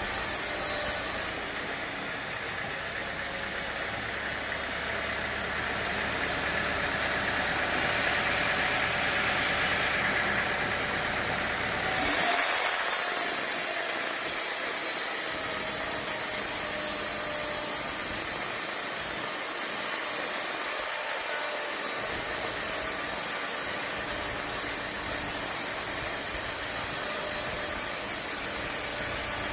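Sawmill machinery running: a steady engine-like drone with hiss. The sound changes abruptly about a second in and again about twelve seconds in, and the middle stretch builds gradually.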